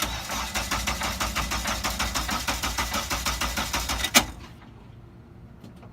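Honda CRX's swapped K-series four-cylinder engine catches and runs with a heavy, rhythmic knocking at about six knocks a second: rod knock from a failing connecting-rod bearing. It stops about four seconds in with a sharp click.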